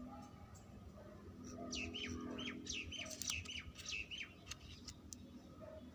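A bird chirping: a quick run of about a dozen short chirps, each falling in pitch, coming three or four a second, starting about a second and a half in.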